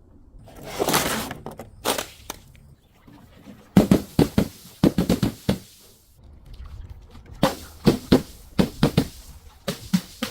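Glass breaking in clusters of sharp cracks and crunches: a few single hits, then two quick runs of many impacts.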